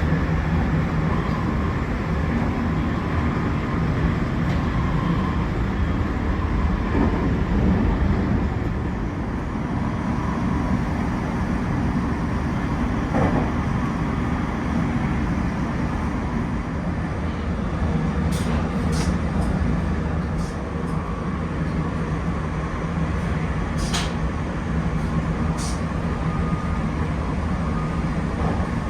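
A JR Shinkaisoku rapid train running, heard from inside the A-Seat car: a steady rumble of wheels and running gear, with a few short clicks in the second half.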